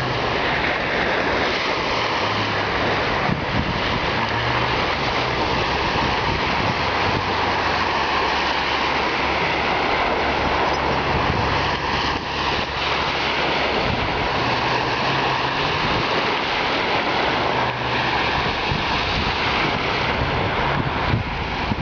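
Steady loud rushing of floodwater, with wind buffeting the microphone and a low hum coming and going underneath.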